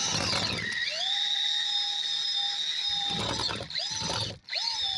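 Electric drill turning a 2-inch auger bit as it bores into a wooden mug blank, its motor whine sagging in pitch as the bit bites and then recovering. The drill stops briefly near the end and starts again.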